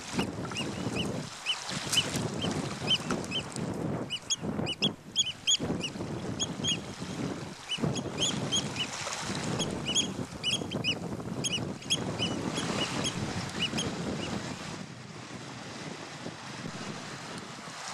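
Birds calling: many short, sharp calls repeated in quick runs, several birds overlapping, stopping near the end. Under them, wind rushes on the microphone.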